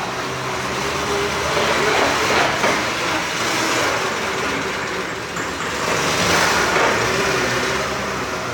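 A vehicle engine running steadily under a broad rushing noise that swells and fades twice.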